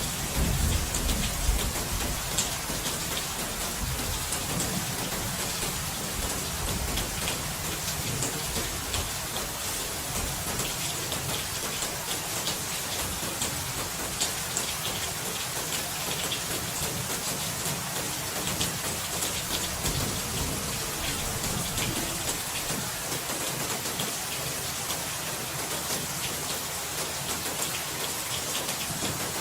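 Steady rain falling, with scattered drop ticks, and a low rumble of thunder in the first few seconds that dies away.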